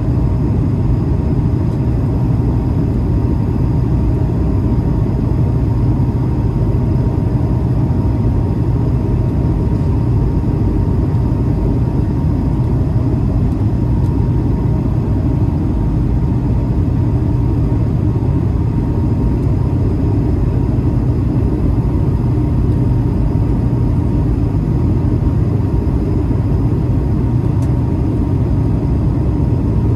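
Steady cabin noise inside an Airbus A220-300 airliner in flight: a deep, even roar of airflow and its Pratt & Whitney geared turbofan engines, with a faint steady hum above it.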